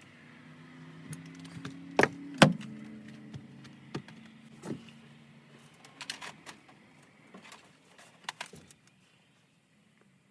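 A series of sharp knocks and clicks, the two loudest close together about two seconds in, over a low steady hum; everything stops at about nine seconds.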